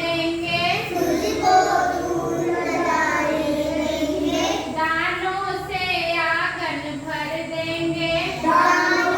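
A child's voice singing a Hindi children's poem in a sing-song recitation, the lines flowing one into the next with held notes.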